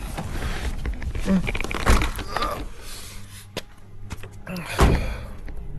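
Two loud, sharp thumps about three seconds apart, over a steady low hum.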